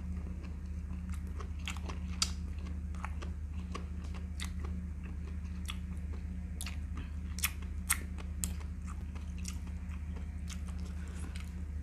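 A person chewing food close to the microphone, with short sharp mouth clicks and smacks scattered through, the loudest a little after two seconds and twice near eight seconds, over a steady low hum.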